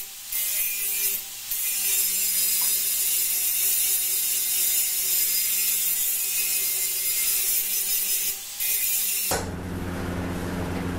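Power grinder running against steel in a steady grind with a few brief let-ups. About nine seconds in it cuts to a different, deeper steady rushing noise.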